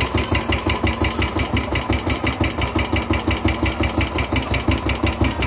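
Royal Enfield 350 single-cylinder motorcycle engine idling with an even, rapid beat of about eight pulses a second.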